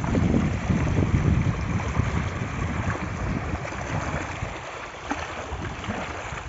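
Wind buffeting the microphone over the steady rush of flowing floodwater.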